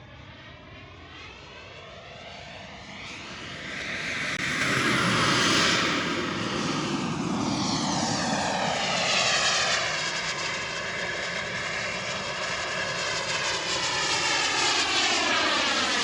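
Radio-controlled model airplane flying past. Its engine noise swells over the first five seconds as it approaches, then stays loud as it passes and carries on, the pitch sweeping as it moves.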